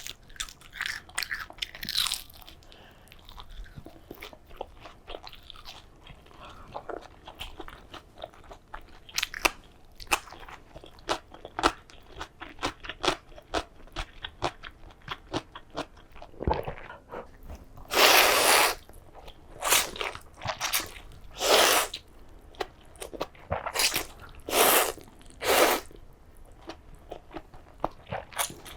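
Close-miked eating sounds: a person chewing and crunching food, with many short crackles and clicks. In the second half come several louder, longer bursts, each under a second.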